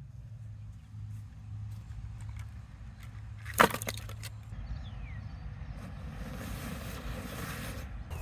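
Firewood handled: one sharp crack of wood about three and a half seconds in, followed by a few lighter knocks, over a low steady rumble.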